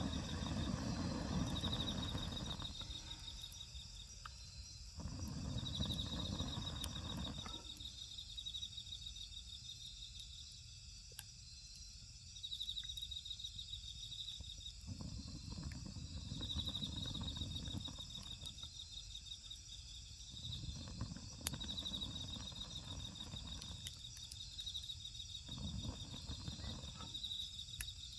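Insects trilling in short, high-pitched bursts that repeat every few seconds over a steady insect hum. A low rumbling noise swells and fades several times, and there are a few sharp clicks.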